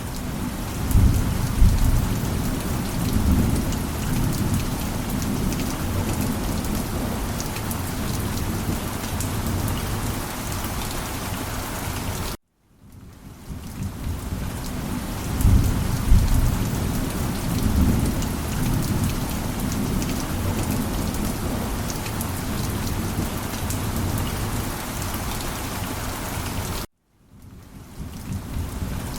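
Steady heavy rain with low rolling thunder rumbling under it. The sound cuts off abruptly twice, about 12 and 27 seconds in, and fades back in each time.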